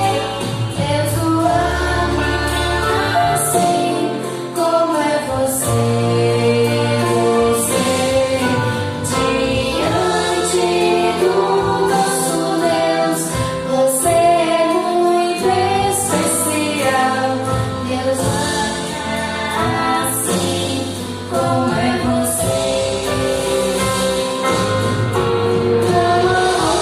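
A choir singing a gospel song with instrumental backing and a steady beat.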